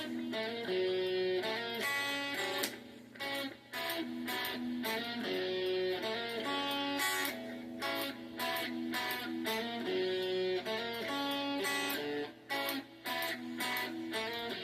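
Solo guitar strummed and picked through a repeating chord progression, played softly, with a faint steady hum underneath.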